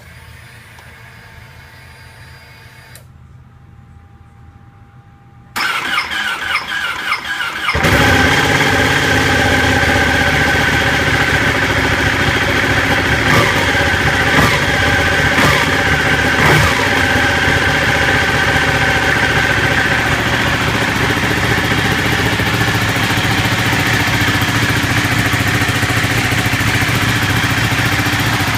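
Ducati 1199 Panigale's Superquadro V-twin being started: after a faint whir, the starter cranks for about two seconds from about five seconds in, then the engine fires and settles into a steady idle.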